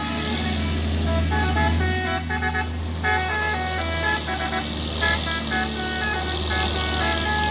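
Heavy truck engine running with a low, steady hum, while a multi-tone musical horn plays a quick run of short notes at changing pitches.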